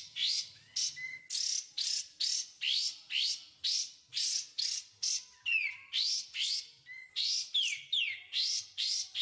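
Songbird calls from a masteran (bird-song tutor) recording of kapas tembak and cucak jenggot: a fast, steady string of short, high rising chirps, about two a second, with a few falling whistles about halfway and near the end.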